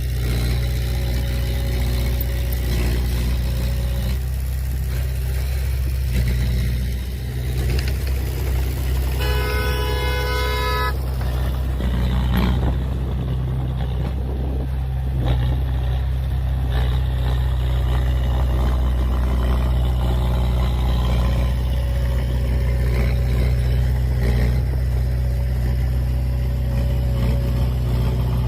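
Heavy diesel machinery engine running steadily, with one vehicle horn blast of under two seconds about a third of the way in.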